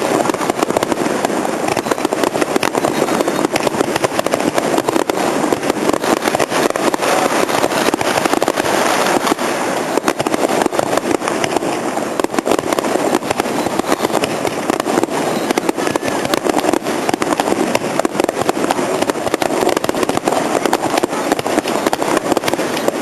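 Fireworks display going off in a dense, continuous barrage of rapid bangs and crackles, steady throughout.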